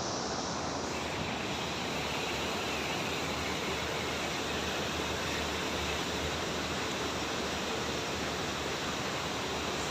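Steady rushing of a large waterfall, an even wash of water noise with no breaks.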